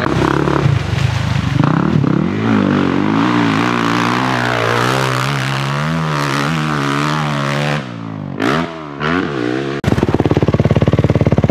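Dirt bike engine revving as it rides the track, its pitch rising and falling with the throttle and gear changes, dropping away about eight seconds in. Near the end a louder, fast, evenly pulsing sound sets in close by.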